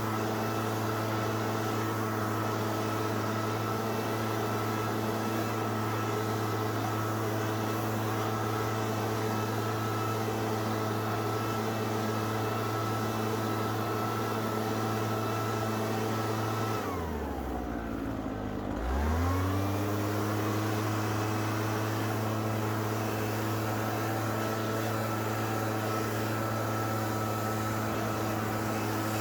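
Gas string trimmer engine running steadily at high throttle. About seventeen seconds in, the throttle is let off and the engine drops toward idle, then it revs back up about two seconds later and holds steady again.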